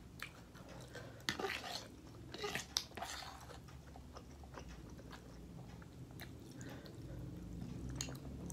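Close-up mouth sounds of a person eating instant carbonara noodles: chewing with a few louder noisy bursts between about one and three seconds in, then quieter chewing and small clicks.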